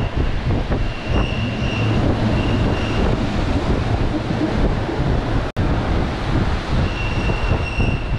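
Narrow-gauge passenger train running along the track: a steady rumble of wheels on rails, with a thin, high wheel squeal coming and going several times. The sound cuts out for an instant about five and a half seconds in.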